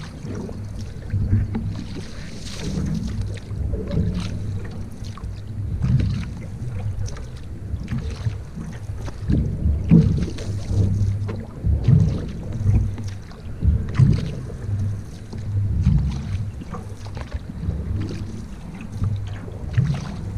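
Canoe being paddled: water splashing and swirling around the paddle and hull, surging about every two seconds with each stroke, with scattered small knocks.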